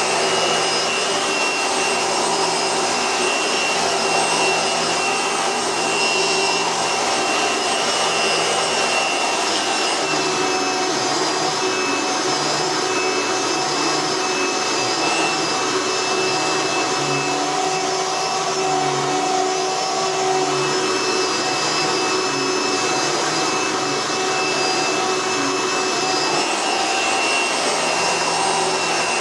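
Hoover Elite upright vacuum cleaner running steadily: a constant whine over a rushing motor noise, with a slight change in the lower sound partway through.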